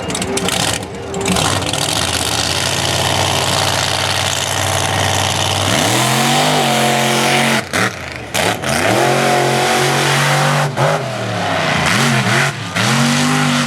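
Monster truck engine running hard with a dense roar. From about six seconds in it revs up and down in repeated throttle blips, the pitch rising and falling each time.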